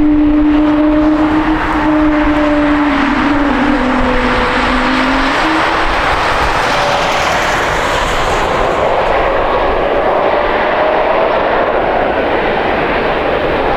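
Jet airliner's engines running loud as it passes close by: a steady rush of engine noise with a humming tone that sinks in pitch and fades over the first five seconds or so.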